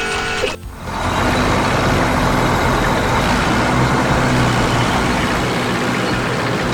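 Heavy truck engine running steadily with a low hum, starting about a second in just after a snatch of music cuts off.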